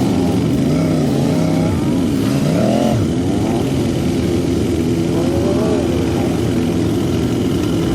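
Several big motorcycles' engines running together, their pitch rising and falling as they accelerate and ease off, with one sharp rev climbing about two and a half seconds in.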